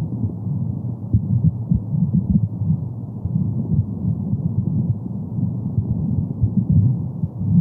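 Womb sound for soothing a baby: a muffled, low rushing noise with no high end, and a heartbeat-like pulse beating through it.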